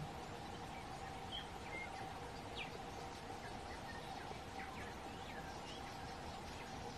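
Faint scattered short bird chirps over a steady background hiss and a steady hum.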